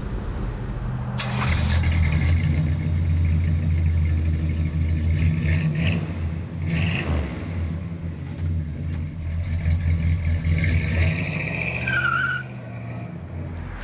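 V8 muscle car engine pulling hard under acceleration. It comes on strong about a second in, runs loud and steady for several seconds, then eases off near the end.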